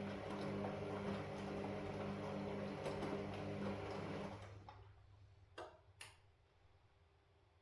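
Washing machine running with a steady hum, which winds down and stops about four seconds in. Two sharp clicks follow about a second later.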